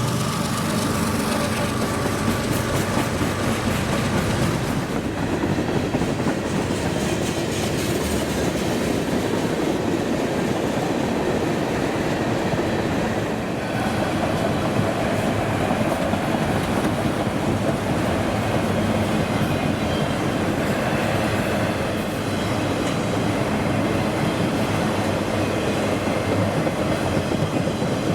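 Freight train cars rolling past at a steady pace, their wheels clacking over the rail joints in a continuous rumble.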